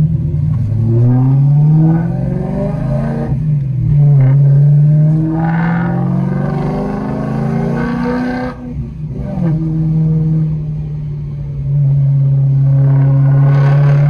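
BMW M3's V8 engine heard from inside the cabin, accelerating through the gears: the pitch climbs, drops at upshifts about two and three seconds in, and climbs again. Just past the middle the engine briefly drops back, then holds a steady pitch.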